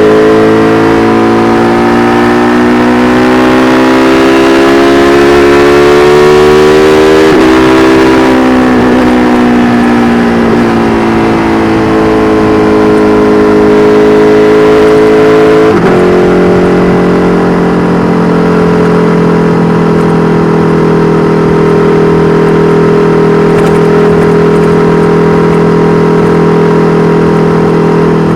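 KTM 1290 Super Duke R Evo's V-twin running through an Austin Racing V3 Mini exhaust under way: it pulls with a rising note, drops in pitch about seven seconds in, then winds slowly down. About halfway through it steps down suddenly to a steady lower note that holds to the end.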